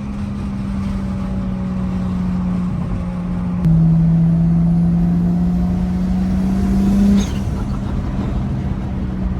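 Big-turbo Toyota Supra's 2JZ inline-six, heard from inside the cabin. It cruises at a steady note, then about four seconds in it goes hard on the throttle, getting louder with the pitch climbing, and a few seconds later the throttle snaps shut and the engine drops back to a steady note.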